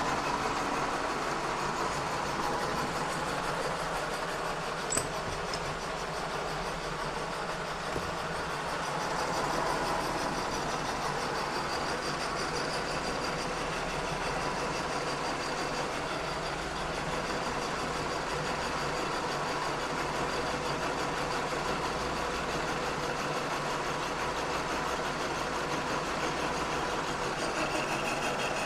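Kearney & Trecker 2HL horizontal milling machine running with its face mill taking a light cut of about five thousandths across a cast iron straight edge. It makes a steady, dense cutting and motor noise, with one sharp tick about five seconds in.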